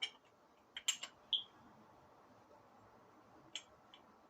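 Light metallic clicks and taps of bolts and a steel bracket being handled on the engine as the bolts are started by hand. A cluster of clicks comes about a second in, followed by one short ringing ping, then a couple of single clicks near the end.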